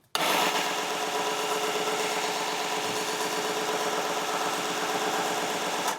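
Small electric belt sander running with no load: a steady motor hum and whine made of many held tones. It starts suddenly right at the beginning and cuts off just before the end.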